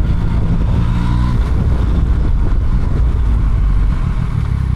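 Motorcycle engine running on the move, heard from the rider's seat over wind and road noise; the steady engine note shifts about a second and a half in.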